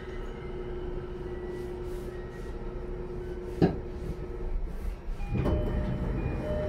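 Cabin of a JR East E233-1000 series electric train at the end of its run. A steady hum ends a little after halfway, with a single knock just before. Near the end, louder noise from the sliding doors starts as they open.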